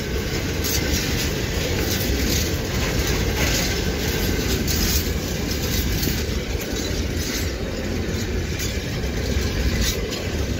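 Freight train of high-sided open wagons passing close by at speed: a steady heavy rumble of steel wheels on the rails with light irregular clicking over the rail joints.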